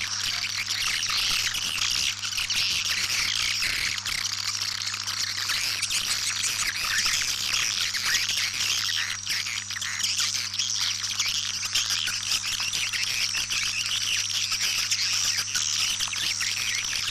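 Swiftlets twittering: a dense, continuous chatter of many rapid high chirps, a recorded swiftlet call of the kind played to lure swiftlets into a nesting house. A steady low hum runs underneath.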